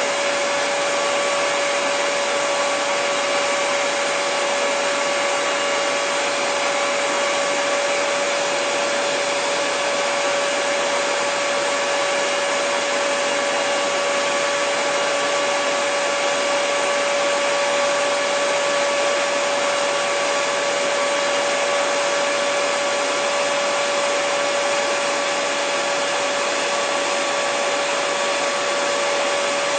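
Hair dryer running continuously: a steady, unchanging rush of air with a constant motor whine over it.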